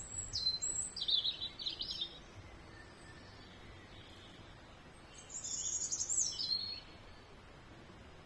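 A songbird singing two short, high-pitched phrases of quick stepped and gliding notes, the first lasting about two seconds and the second starting about five seconds in.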